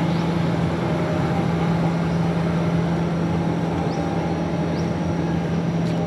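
A steady mechanical hum, like a motor running at constant speed, under a few faint, short, high chirps.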